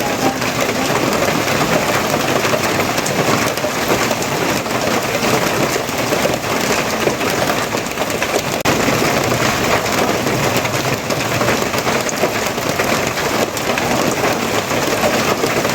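Heavy rain falling steadily: a dense, even hiss of countless drops, with no let-up or change.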